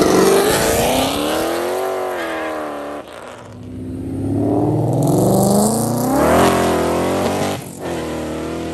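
Cars pulling away hard one after another: one engine revs and eases off over the first three seconds, then a second engine climbs steadily in pitch under full throttle for about three seconds before dropping back as it shifts up, and keeps pulling.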